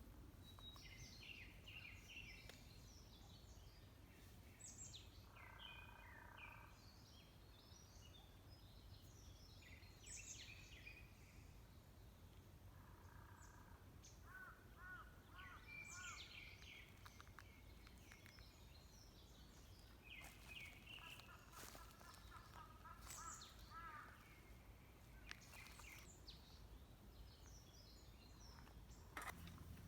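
Faint calls and songs of several birds, short chirps and trills at different pitches scattered throughout, over a low steady hum.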